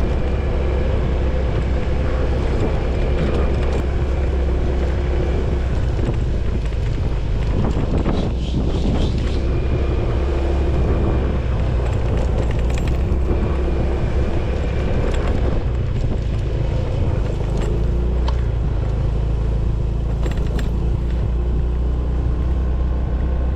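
An engine running steadily with a constant low rumble, as from a motor vehicle under way.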